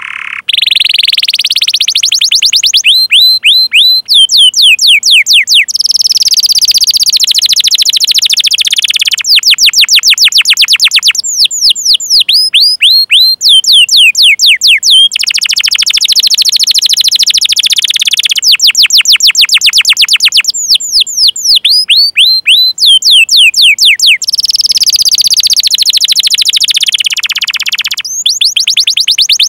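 Canary singing, alternating runs of quick down-slurred 'cuit cuit' chirps with fast rolling trills, the phrase type changing every two to three seconds.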